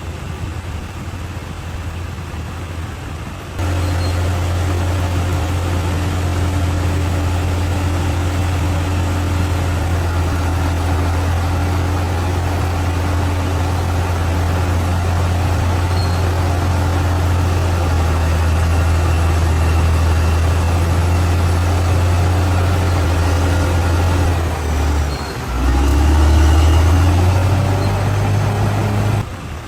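Bulldozer's diesel engine running steadily, stepping up suddenly in loudness a few seconds in. Near the end it drops away briefly, then revs up before cutting off.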